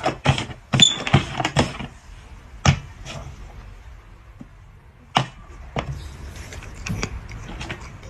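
A series of knocks and thumps: a quick run of them in the first couple of seconds, then a few single knocks spaced out over the rest.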